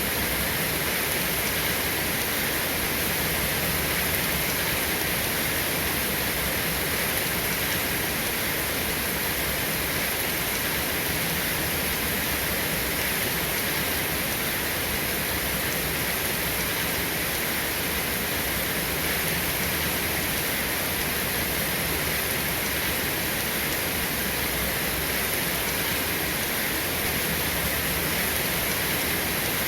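Steady, dense rainfall, an even hiss with no thunder or separate drops standing out.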